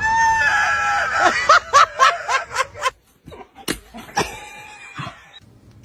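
A person laughing loudly: a held high-pitched note, then quick repeated bursts of laughter, about four a second, and a few more bursts after a short pause.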